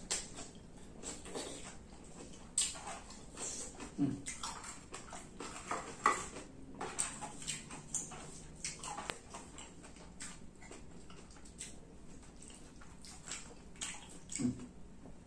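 Wet chewing, lip-smacking and slurping of a person eating stir-fried water spinach (kangkung belacan) and rice by hand: irregular small smacks and clicks throughout, with a brief low hum about four seconds in and again near the end.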